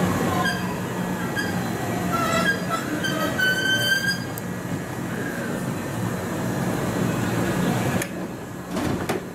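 JR West 223 series electric train coming to a stop at a platform, with several high squealing tones for about the first four seconds over a steady low hum. A couple of sharp knocks near the end.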